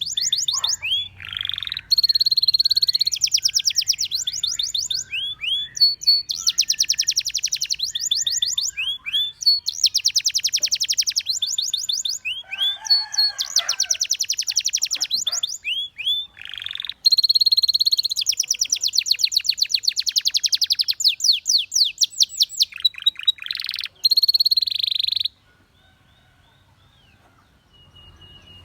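Canary singing: long, rapid trills of repeated high notes alternating with held whistled notes and short rising chirps, the song stopping and restarting abruptly. Near the end it drops to a few faint chirps.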